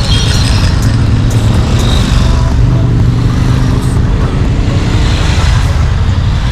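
Motorcycle being ridden on the road, its engine running steadily under a loud, continuous low rumble.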